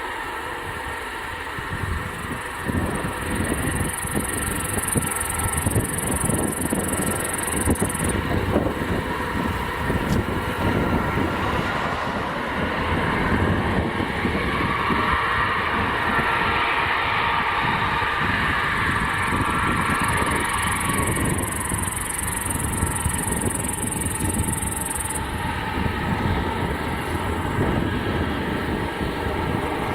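Tu-160 bomber's four NK-32 afterburning turbofans running at full power on takeoff: a steady, loud, rough jet roar that holds throughout.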